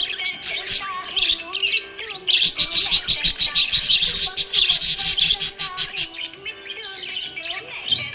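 Budgerigar chirping and chattering, with a fast run of sharp chirps from about two seconds in to about six seconds, over background music.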